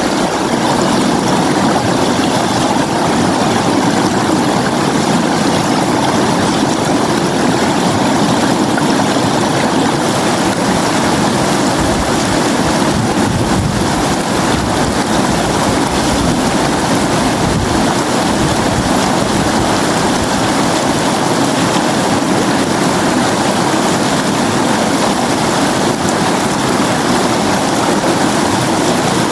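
River water flowing steadily: an even, unbroken rushing sound.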